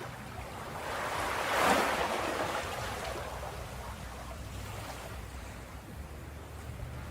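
Ocean waves breaking on a beach: one wave swells and crashes about a second and a half in, then washes back out under a steady low surf rumble.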